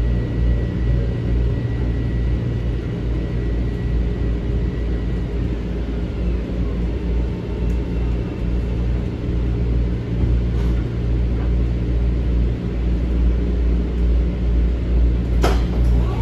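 Metro-North M7 electric train standing at a station stop with a steady low hum and rumble from its onboard equipment. Near the end come a sharp click and a brief tone.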